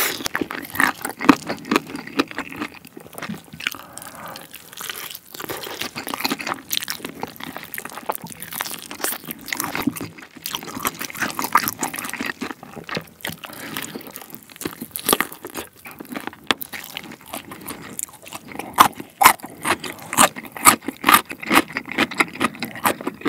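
Close-miked eating of BBQ Secret yangnyeom fried chicken drumsticks in a sticky sweet-spicy glaze: biting and chewing, a dense, irregular run of wet, sticky clicks and crunches from the coated skin and meat.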